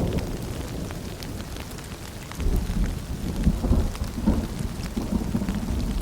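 Steady rain with scattered drops and rolling thunder: a low rumble dies away over the first two seconds, and another rolls in about two and a half seconds in.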